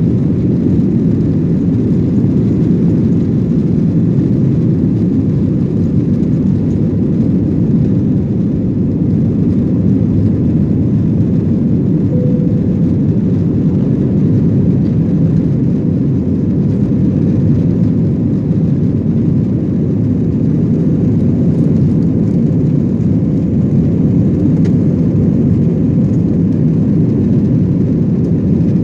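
Steady loud cabin noise from an Airbus A321-200's jet engines and airflow, a deep even rumble heard from a seat behind the wing.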